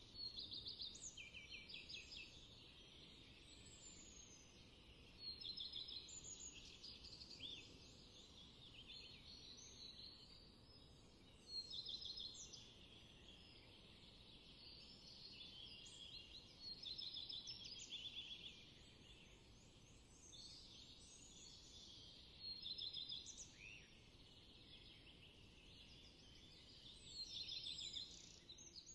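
Songbirds singing: short phrases of rapid chirps and sweeping notes, repeated every few seconds, several voices overlapping, over faint steady background noise.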